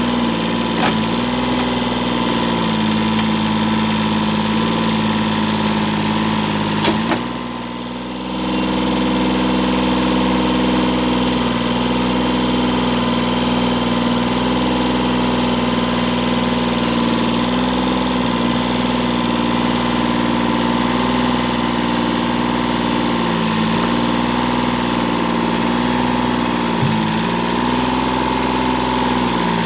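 Kubota tractor's diesel engine running steadily, its note dipping briefly now and then. A sharp click comes about seven seconds in, followed by a moment when the sound drops a little.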